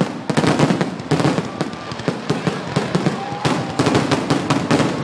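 Aerial fireworks bursting in quick succession: a dense, unbroken run of sharp bangs and crackles, several a second.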